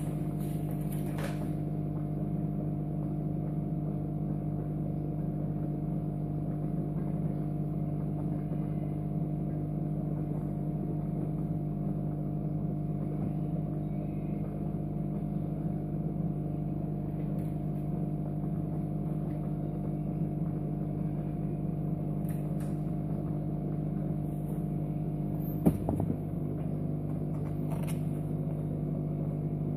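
A steady electrical hum at an even pitch, with a single sharp click about twenty-six seconds in.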